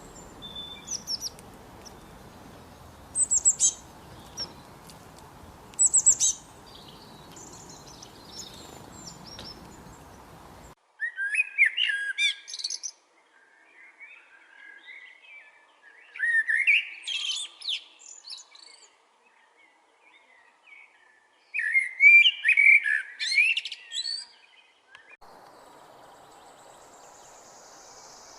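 Songbirds singing in a spring forest: short, high-pitched chirps over a steady background hiss, then an abrupt change to a quieter background where a bird sings three longer, warbling phrases a few seconds apart. The background hiss returns near the end.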